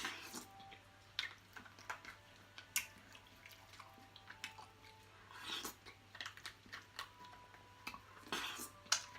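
Close-miked wet eating sounds: chewing, lip-smacking and mouth clicks from someone eating soft crab head and spicy seafood-boil sauce, with two longer, louder slurping sounds about five and a half and eight and a half seconds in.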